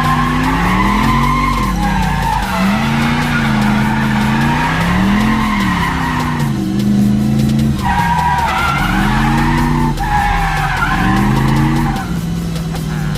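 Turbocharged LS V8 in a Lexus IS300 drift car, its engine pitch rising and falling over and over as the throttle is worked through a drift, with tires squealing and skidding.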